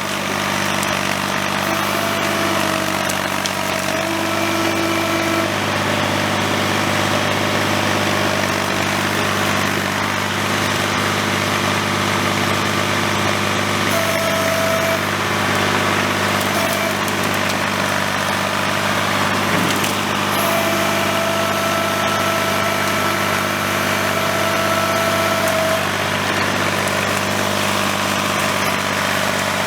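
Tractor engine running steadily at a constant speed, with a thin higher whine that comes and goes a few times.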